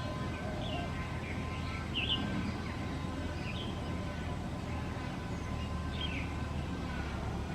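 A few short, high bird chirps, one every second or two, over a steady low background rumble.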